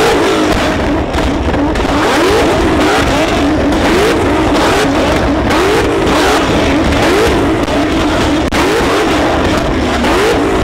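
Car engine revved hard over and over, its pitch sweeping up roughly once a second, over a loud, dense roar.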